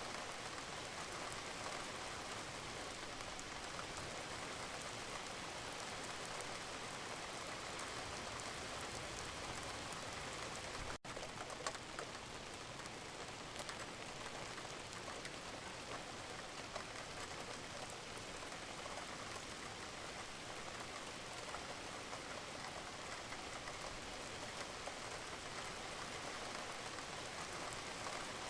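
Steady rain falling, an even hiss with fine patter of drops. The sound cuts out for an instant about eleven seconds in.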